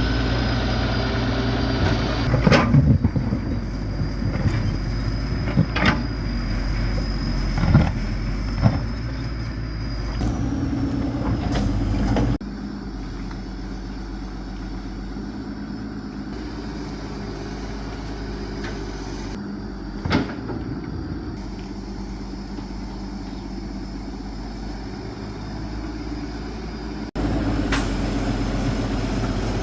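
A heavy machine's engine running steadily, with occasional sharp knocks and clanks. The sound drops suddenly about twelve seconds in and comes back louder near the end.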